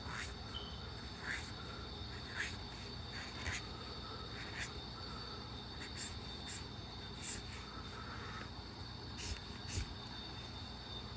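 Felt-tip marker strokes on paper, about a dozen short scratchy strokes, some with a brief squeak, over a steady high-pitched tone.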